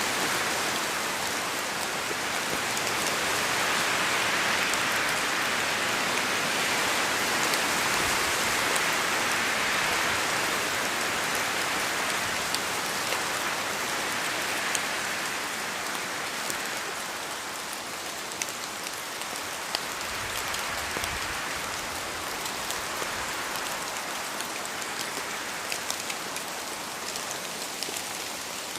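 Steady rain in a forest, with scattered sharp drips of drops falling from the trees, more noticeable in the second half. The rushing hiss swells for several seconds in the first half and then eases, as wind moves through the wet trees.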